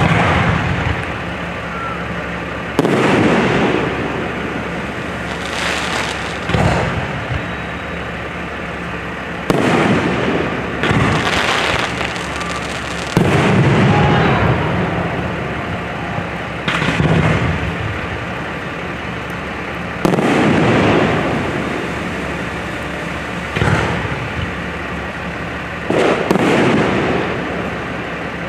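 Aerial fireworks shells bursting overhead, about ten loud booms a few seconds apart, each trailing off in a fading rumble and crackle.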